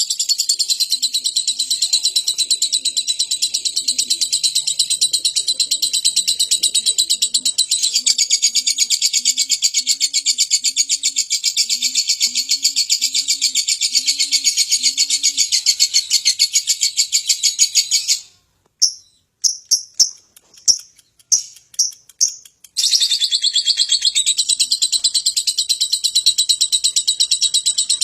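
Lovebird singing a long, rapid, unbroken high-pitched chatter. It breaks off about two-thirds of the way through for a handful of separate chirps, then starts again. In the first half another bird gives a run of low, evenly spaced notes underneath.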